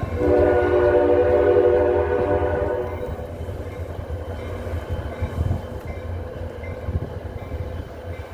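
A passenger train's air horn sounds one steady, chord-like blast of about three seconds, starting just after the beginning. After it stops, the train's low rumble carries on steadily.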